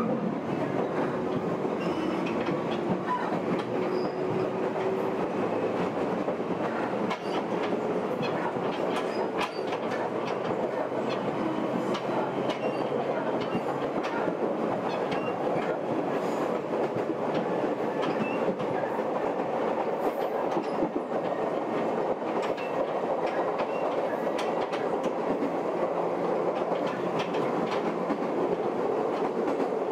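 Meitetsu Gamagori Line electric train running along the track: a steady rumble with frequent short clicks of the wheels over the rail joints.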